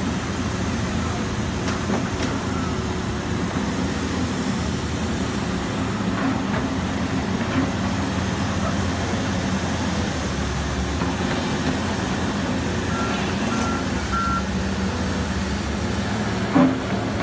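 Heavy diesel construction machinery running steadily, with a low engine hum, and three short reversing-alarm beeps about two-thirds of the way through.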